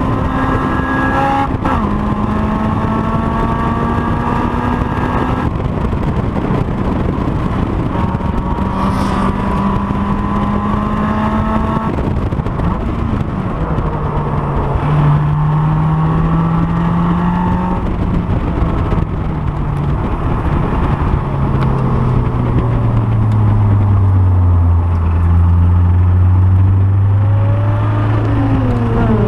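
Honda S2000's four-cylinder engine running hard on a circuit, heard onboard: held at high revs for several seconds at a time, then the pitch drops in steps to much lower revs over the last ten seconds or so.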